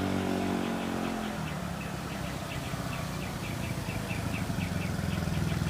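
Small motorcycle engine held at a steady raised speed, then dropping to a pulsing idle about one and a half seconds in. A series of faint, short, high chirps sounds above it.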